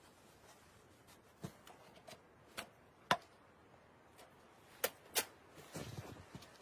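Scattered sharp knocks and clicks, about six in all, the loudest about three seconds in, with a short rustle near the end.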